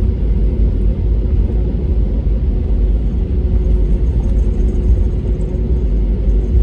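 Cabin noise inside an Airbus A320neo: a loud, steady low rumble of the Pratt & Whitney PW1100G geared-turbofan engines and airflow, with a steady hum above it.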